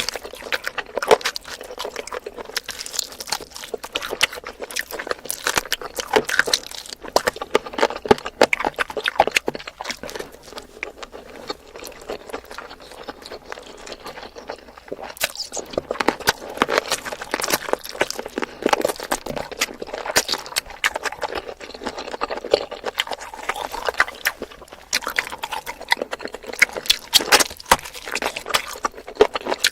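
Wet chewing and mouth smacking on spicy chicken feet, a dense, irregular run of sticky clicks.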